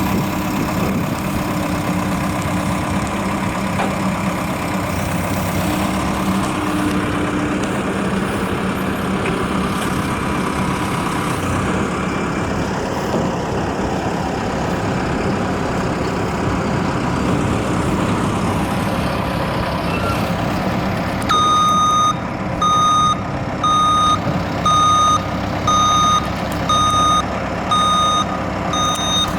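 Heavy truck engine running steadily. About two-thirds of the way in, a reversing alarm starts beeping, about once a second.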